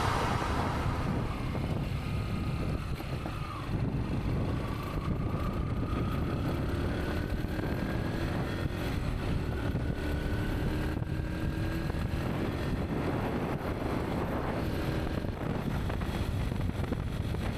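A vehicle's engine runs steadily under heavy wind rumble, its pitch climbing slowly for several seconds in the middle.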